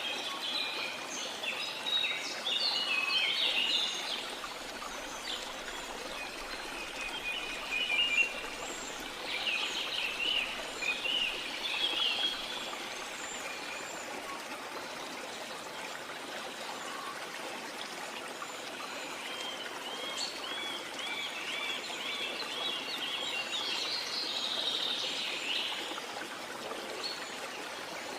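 Small birds chirping and singing in several bursts, including a fast run of repeated notes about two-thirds of the way in, over a steady wash of water.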